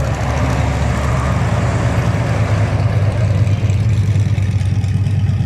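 Truck engine running with a steady low drone, with a rushing noise that swells over the first couple of seconds and fades away.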